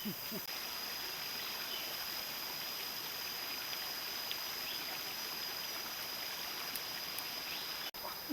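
Steady rushing of running water, with a constant high-pitched insect drone over it.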